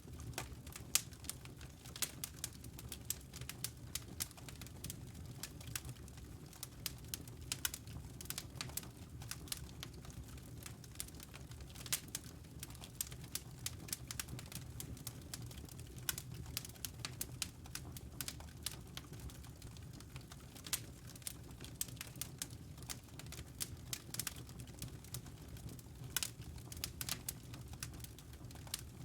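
Wood fire burning in a fireplace: irregular crackles and snaps over a low steady rumble.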